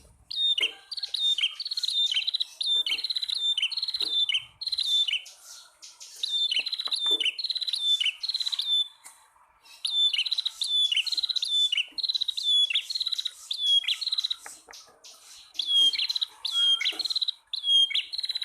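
Male and female bar-winged prinias (prenjak tamu) calling: sharp, trilled notes, each falling slightly in pitch, repeated about one and a half times a second in phrases of four to six, with short pauses between phrases.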